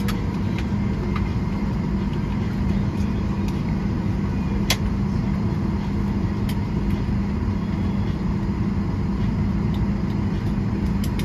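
Steady low drone of an airliner cabin parked at the gate, its ventilation air and aircraft systems humming, with a few faint clicks and knocks, the clearest about halfway through.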